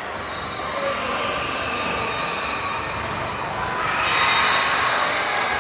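Indoor volleyball match in a gym: ball strikes and court noise in an echoing hall, with a few sharp knocks about three seconds in. The mix of voices swells about four seconds in.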